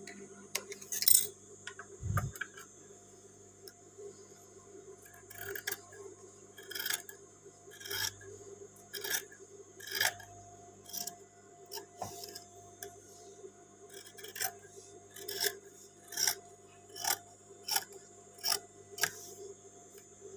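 Scissors cutting fabric in short, sharp snips, roughly one a second from about five seconds in, over a faint steady hum.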